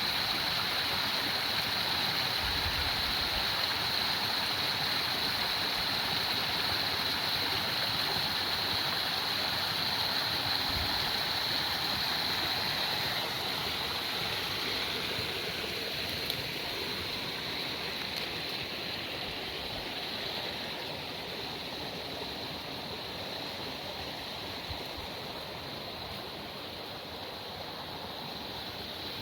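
Steady rush of flowing creek water over rocks, easing slightly about halfway through.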